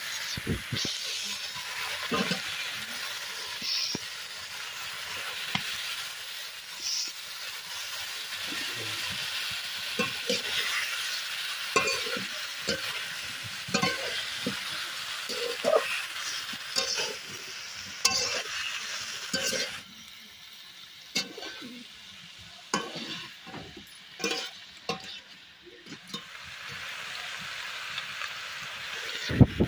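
Chicken pieces and cauliflower florets sizzling in oil in a metal kadai while a flat spatula stirs them, scraping and knocking against the pan again and again. The sizzle dies down for a few seconds about two-thirds of the way in, then picks up again.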